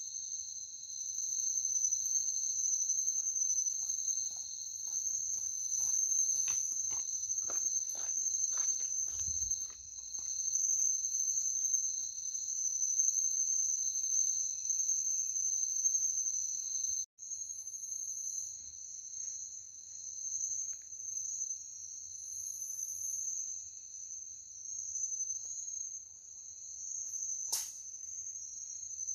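Steady high-pitched chorus of insects such as crickets, running without a break. A few faint rustling strokes come about a quarter of the way in, and one sharp click comes near the end.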